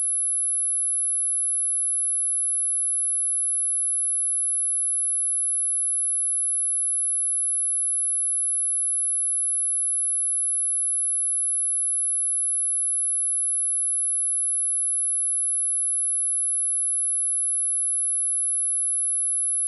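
A pure 10982 Hz sine test tone, held steady at one high pitch and an even level, as played to test a speaker or to shake dust and water out of it.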